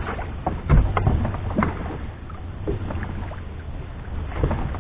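Scattered knocks and thuds on a small fishing boat at sea, over a low steady hum.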